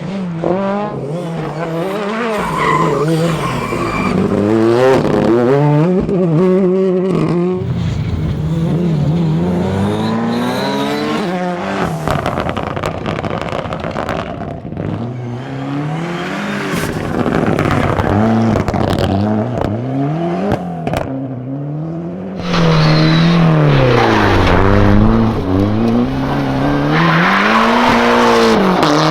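Rally cars driven hard, engines revving up and dropping back again and again through gear changes and lifts. Louder passes come in abruptly about twelve and twenty-two seconds in.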